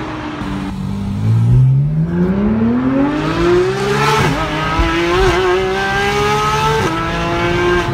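Porsche 991 GT3's naturally aspirated flat-six, breathing through a Fi Exhaust catless downpipe and valved cat-back, accelerating hard and heard from inside the cabin. The engine note climbs steeply from about a second in and drops with an upshift about four seconds in. It climbs again and makes a second upshift near the end.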